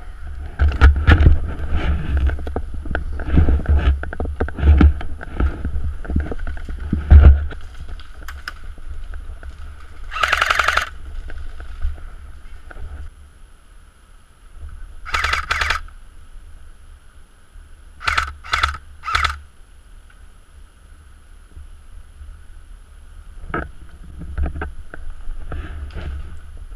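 Loud thumps and knocks of a player moving close to a helmet-mounted camera, then a few short, sharp bursts of airsoft fire, three of them close together near the end.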